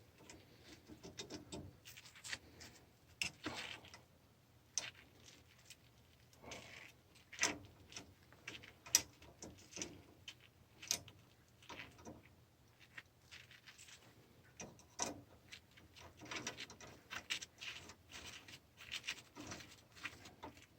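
Faint, irregular clicks, taps and short scrapes of small parts being handled and fitted during reassembly of a steam boiler's automatic water feeder valve.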